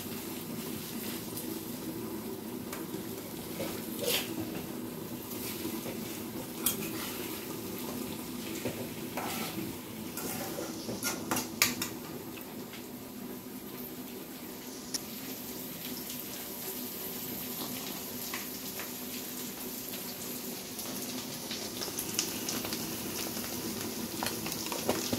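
Fish roe and onions frying in oil in a kadai with a steady sizzle, broken by a few knocks and clinks of a metal spatula and a steel lid against the pan, the sharpest clatter a little before halfway.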